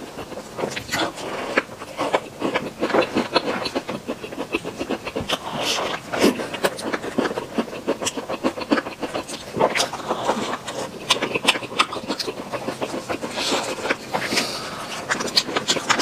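Close-miked chewing of an Oreo cream puff, with many quick wet smacks and clicks of the mouth.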